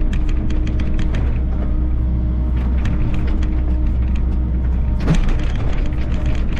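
Volvo EC60E mini excavator's diesel engine running steadily, with a quick run of clanks and knocks from the bucket working stone. A short whine rises and falls about five seconds in.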